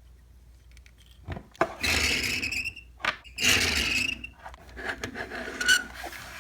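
Small plastic toy pieces rubbing and squeaking as they are pushed into a plastic playset: two scrapes of about a second each, a couple of seconds in and again past the middle, then lighter clicks and rubbing.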